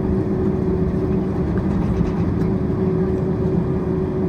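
Steady low rumble with a constant hum inside the cabin of a Boeing 767-400ER, its engines idling as it taxis after landing.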